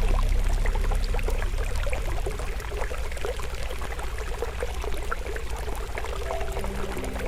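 Forest stream flowing steadily with a campfire crackling in small scattered pops. Soft held music notes fade out in the first second or two and come back near the end.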